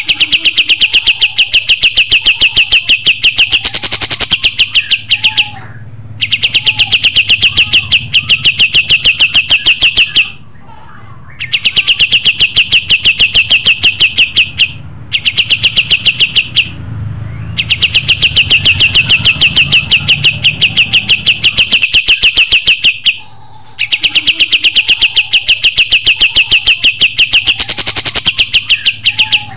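Kapas tembak songbird singing: long rapid trills of evenly repeated high chirps, each phrase lasting about four to six seconds, with short pauses between phrases.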